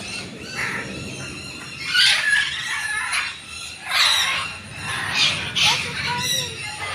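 Large parrots giving harsh screeching squawks, several loud calls about 2, 4 and 5 seconds in.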